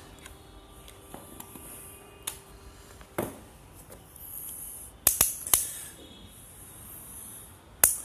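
Toy excavator working: short spells of high whirring with sharp plastic clicks and knocks, the loudest a quick cluster about five seconds in and another near the end.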